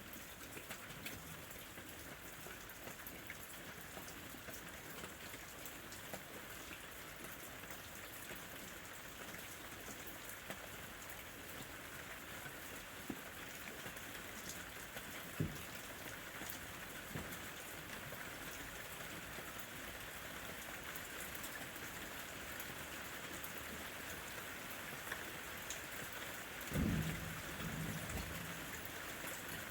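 Steady rain falling on a lemon tree's leaves and fruit, with scattered drop ticks and a single low knock about halfway. Near the end comes a short low rumble, likely distant thunder.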